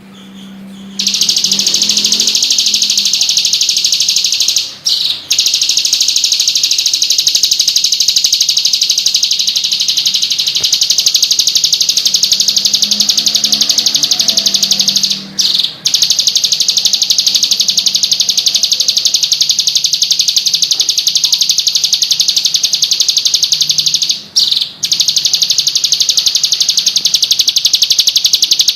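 A bird calling in a rapid, unbroken high-pitched trill of chirps that starts about a second in, broken by three short pauses roughly ten seconds apart.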